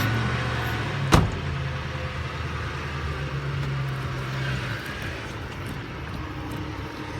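Ford F-150's 4.6 Triton V8 running just after starting, a steady low hum that fades out after about four and a half seconds. A single sharp thump about a second in.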